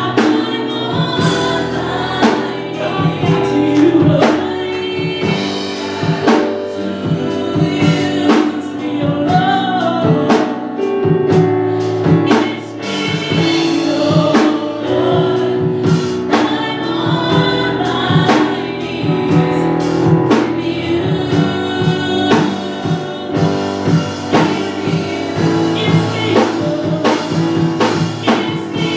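Live gospel worship music: singers over a band with a drum kit keeping a steady beat.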